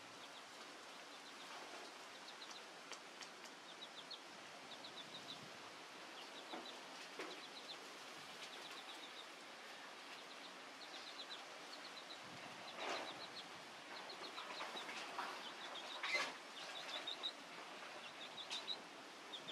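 Birds chirping faintly in quick runs of three or four short, high notes, over and over. A few short sharp sounds stand out, the loudest about sixteen seconds in.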